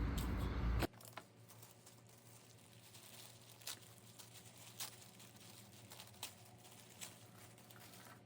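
Brief crinkling of paper and plastic packaging being handled, then near silence with a few faint light taps.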